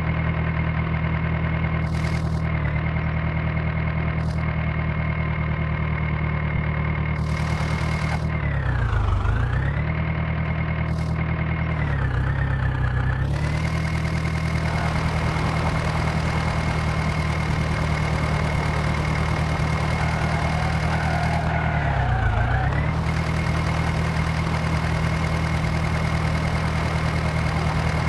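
Swaraj tractor's diesel engine running steadily, its pitch dropping briefly and recovering three times, about nine, twelve and twenty-two seconds in.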